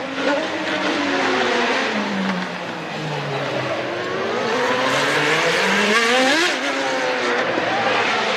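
1993 Formula One race cars running at high revs, their engine notes dropping as they slow for a corner and then climbing steeply as they accelerate away.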